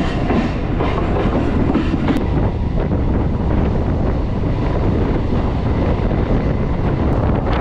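Electric suburban local train running along the track, heard from its open doorway: the steady noise of the carriages and wheels on the rails, with some clickety-clack.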